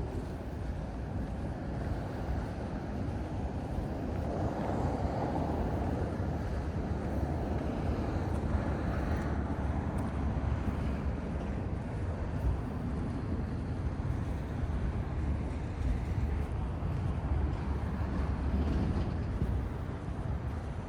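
Street traffic: a steady low rumble of passing road vehicles that swells and fades several times as they go by.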